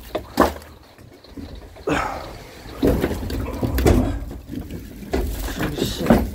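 Bundles of firewood being handled and set down: a series of irregular knocks and thuds, roughly one a second.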